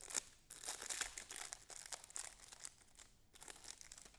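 Trading-card pack wrapper being torn open and crinkled by hand: a rapid run of crackles and rips, with a short pause about three seconds in.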